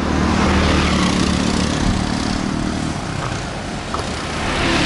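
Motorbike engines and road traffic running, swelling near the start and again near the end as vehicles pass close by.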